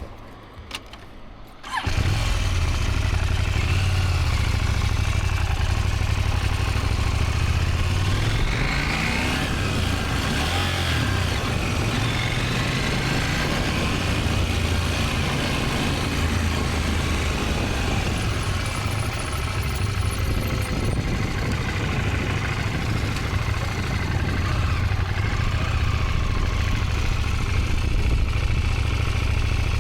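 A motorcycle engine starts about two seconds in, then runs steadily, rising in pitch once about a third of the way through as it is revved or pulls away.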